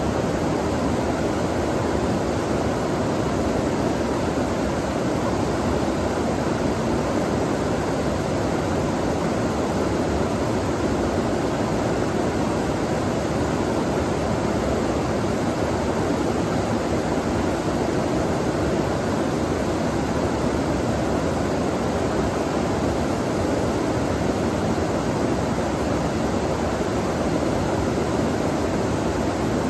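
Running water, a steady unbroken rush with most of its weight in the low and middle range.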